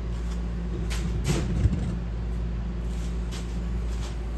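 Steady low mechanical hum, with a few light knocks and clicks from about a second in.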